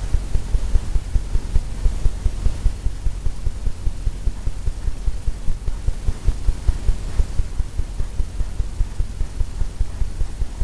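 Fan brush stroking quickly back and forth on a stretched oil-painting canvas, a steady run of low thumps at about four a second.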